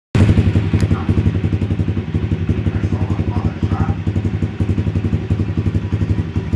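Yakuza 125cc pit bike's single-cylinder four-stroke engine running steadily, a low, even pulsing beat that holds the same pitch throughout.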